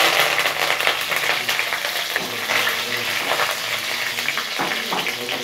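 Garlic cloves, curry leaves and chillies sizzling in hot sesame oil with mustard seeds and dals in a steel kadai, being tempered, with the scraping of a wooden spatula stirring them. A steady sizzle broken by short stirring scrapes.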